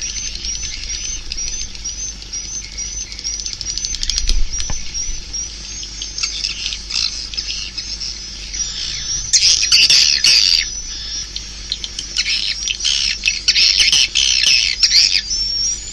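Swiftlet calls of the kind played as a lure for swiftlet houses: a run of short rising chirps about twice a second, then dense, louder bursts of chattering calls around the middle and again through the last third.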